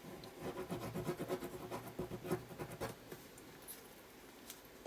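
Faint scratchy rustling and light scraping of paper being handled, thickest over the first three seconds, ending with a sharp tap.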